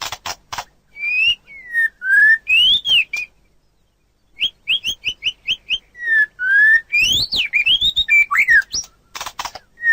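Birdsong of a white-rumped shama mixed with common iora: loud, clear whistled phrases that glide up and down, a quick run of about seven short notes midway, and short scratchy clicking notes near the start and again near the end.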